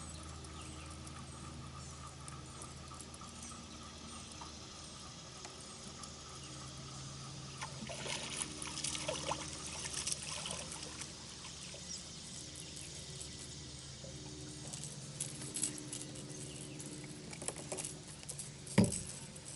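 Water trickling and splashing over a faint steady hum, with scattered small clicks and splashes from about eight seconds in.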